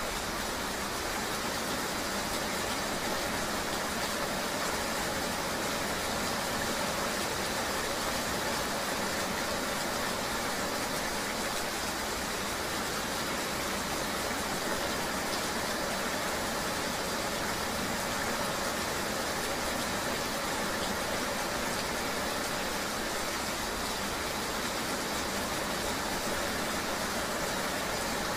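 Steady rain ambience mixed with the running noise of a vehicle on the road: an even, unbroken hiss with no separate events.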